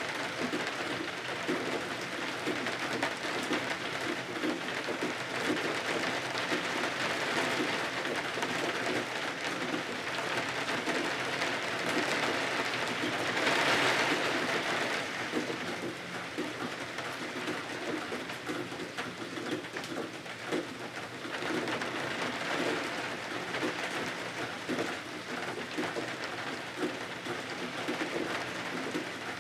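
Steady rain falling against windows and the cottage, a continuous patter that swells heavier for a couple of seconds about halfway through.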